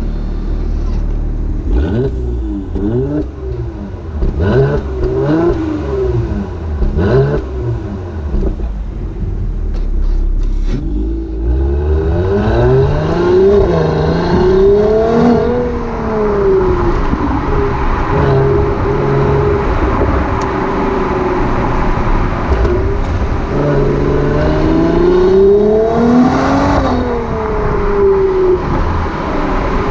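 Mercedes-AMG GLC 43's 3.0-litre twin-turbo V6 and exhaust: a series of quick throttle blips for the first several seconds. Then the car pulls away, engine pitch rising through the gears, holding steady for a while, and rising and falling again near the end.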